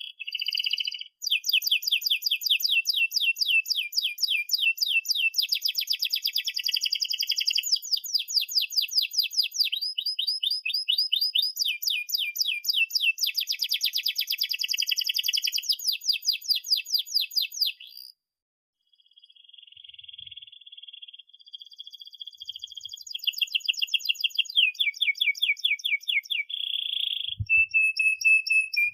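Domestic canary singing a long rolling song of rapid trills, many fast repeated high notes strung together. The song breaks off briefly about two-thirds through, then resumes with new trills.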